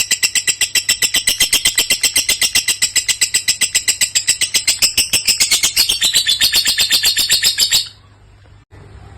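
Lovebird's long unbroken chattering song (ngekek), a rapid run of high notes at about ten a second, stopping abruptly near the end.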